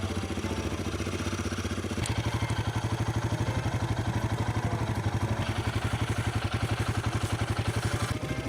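Royal Enfield Himalayan 450's single-cylinder engine idling with a fast, even pulse. It gets louder about two seconds in and drops back a little near the end.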